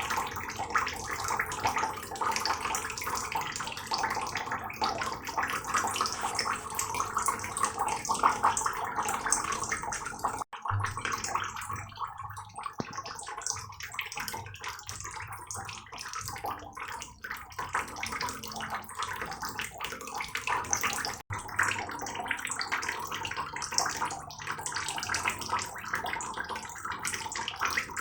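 Heavy rain falling, a dense, steady wash of countless drops. The sound cuts out for an instant twice, about ten and twenty-one seconds in, and is a little thinner in the low end between those cuts.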